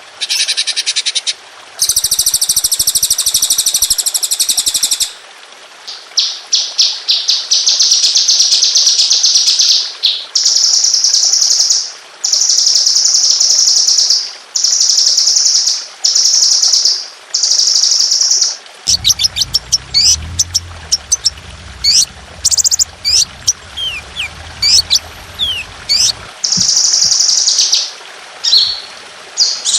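Songbird singing rapid, high-pitched 'tembakan' trills in repeated bursts about a second and a half long, then a run of quick sweeping whistled notes; a low hum sits under the middle of the passage.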